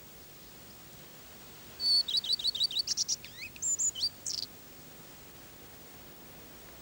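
A small songbird sings one short phrase about two seconds in: a quick run of high, repeated notes breaking into a few short whistled sweeps, lasting about two and a half seconds.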